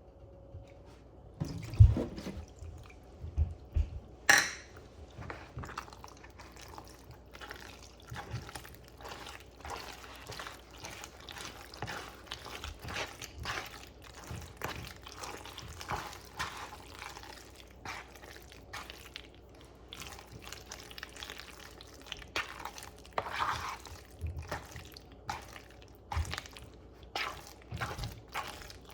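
Wet mac and cheese mixture, with milk just added, being stirred: irregular squelching, sloshing and scraping. There are a few knocks in the first few seconds.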